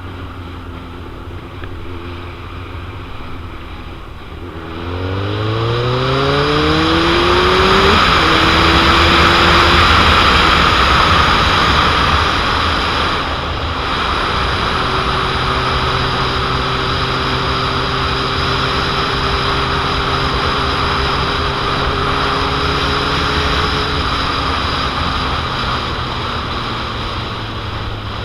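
Suzuki GSX-R750 inline-four sportbike engine pulling hard, its pitch climbing steeply about five seconds in before a gear change, then running at a steady pitch and easing off near the end. Heavy wind noise on the microphone runs underneath.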